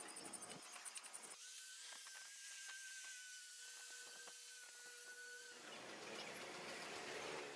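A small electric power tool runs with a steady high-pitched whine for about four seconds, starting about a second and a half in and stopping abruptly.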